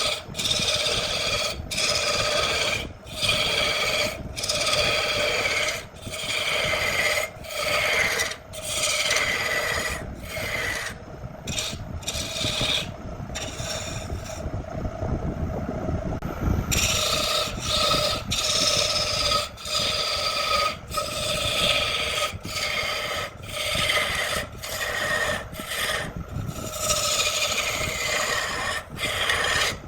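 Wood being worked with an abrasive tool in repeated rasping strokes, a little over one a second, each stroke's pitch falling. The strokes pause for about three seconds around the middle while a steady hum carries on underneath.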